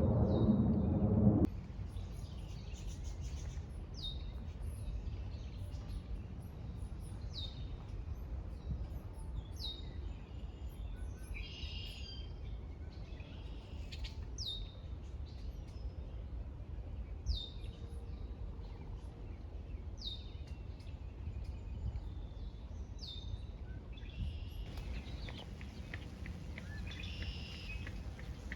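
Wild birds calling in woodland: a short, high, downward-slurred note repeated every second or few, with a buzzy chattering call twice, over a steady low rumble. A louder low sound cuts off suddenly about a second and a half in.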